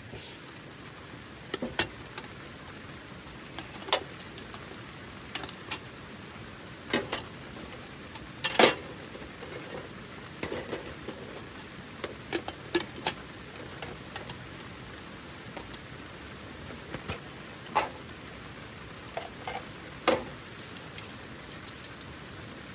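Irregular sharp pops and clicks, about twenty of them, some in quick pairs, over a steady hiss; the loudest comes about eight and a half seconds in.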